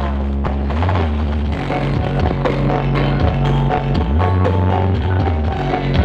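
Loud band music with drums and heavy bass notes played through the Blizzard Audio sound system.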